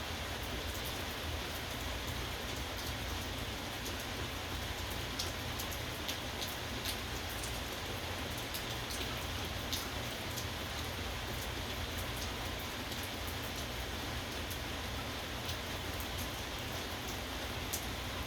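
Steady rain with scattered sharp ticks of single drops striking a hard surface.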